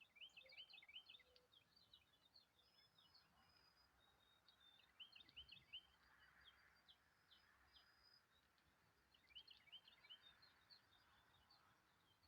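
Faint small songbirds chirping, in three quick runs of short rising chirps with a few thin, high, held whistles between them.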